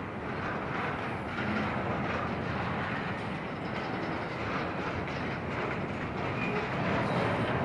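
Union Pacific intermodal freight train rolling past: a steady rumble of wheels on the rails with light clatter.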